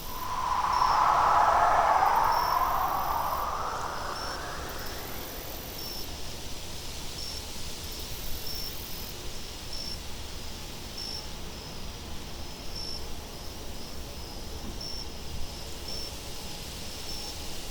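Wind blowing, with a gust that swells and dies away over the first few seconds, over steady cricket chirping that repeats about once or twice a second.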